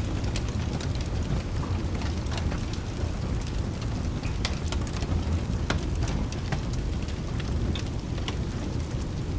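Steady rain with a continuous low thunder rumble, and scattered sharp crackles from a wood fire in a fireplace.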